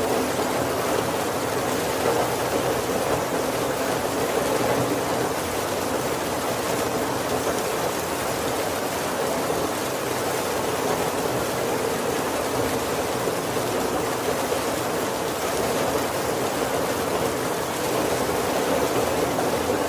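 Heavy rain falling steadily on a carriage roof and windows, heard from inside. It is an even, unbroken patter with no thunder.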